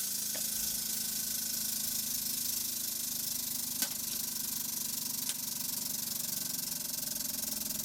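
Hydraulic press running with a steady hiss and faint hum, broken by three sharp snaps, the loudest about four seconds in.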